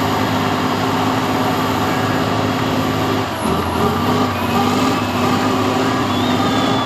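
Truck engine running loud and steady, with a brief drop in level about three seconds in.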